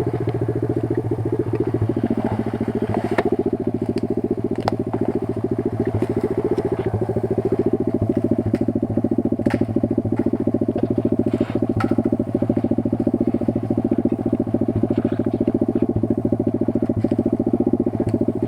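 Kayo 140 pit bike's single-cylinder four-stroke engine running steadily at low to moderate revs, with scattered short clicks and knocks over it.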